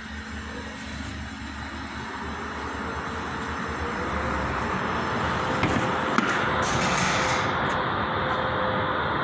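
A motor vehicle running, growing louder over several seconds, with a steady tone and two sharp clicks about two-thirds of the way through.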